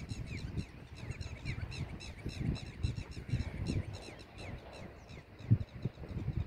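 Small birds chirping: a rapid, continuous run of short, downward-sliding notes. Under them is an uneven low rumble, with a sharp thump about five and a half seconds in.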